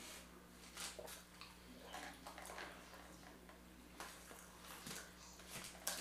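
Close-up chewing of a soft sandwich bite: faint wet mouth clicks and lip smacks, with a few sharper clicks near the end.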